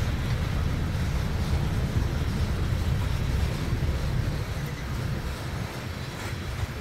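Freight train of open-top gondola cars rolling past, a steady low rumble that eases a little after about five seconds.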